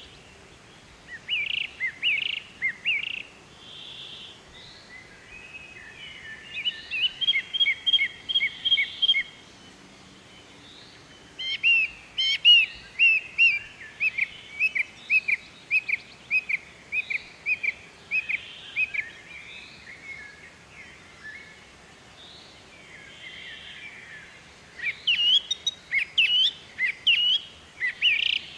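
Birds chirping and calling in bursts of quick, high, repeated notes, with short trills in between. The busiest runs of rapid chirps come in the middle and again near the end.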